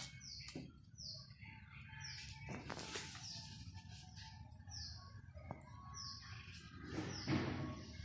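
A bird outside repeats a short, high, falling chirp roughly once a second, faint, with light paper rustling now and then.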